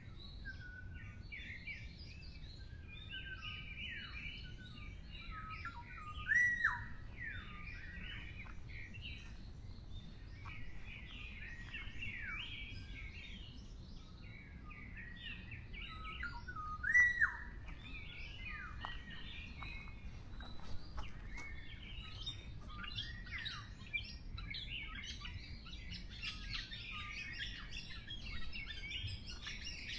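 Forest songbirds chirping and calling together, many short overlapping notes. Two louder calls rise and then slide down in pitch, about six seconds in and again near seventeen seconds. A low steady rumble runs underneath.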